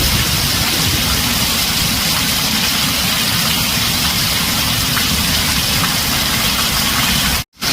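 Heavy rain drumming steadily on a tin roof, a dense even hiss. The sound cuts out to silence for a split second near the end.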